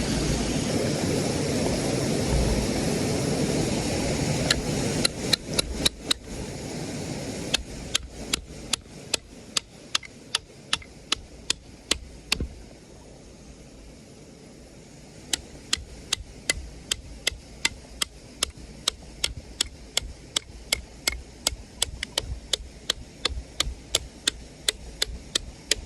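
Firewood being split by repeated sharp strikes, about two a second, with a short pause partway through. A steady rushing noise fills the first few seconds and then fades.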